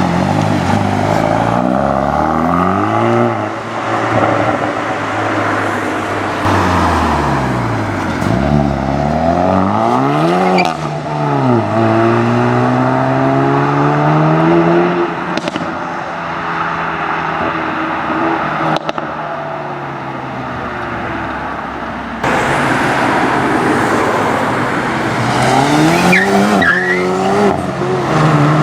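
Hyundai i30N's turbocharged four-cylinder engine and exhaust, the revs climbing and dropping several times as it accelerates, with a few sharp cracks from the exhaust.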